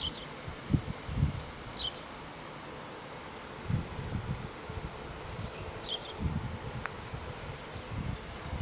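Wind buffeting the microphone in uneven low gusts, while a bird gives a short high call three times: a brief note, then a quick falling chirp.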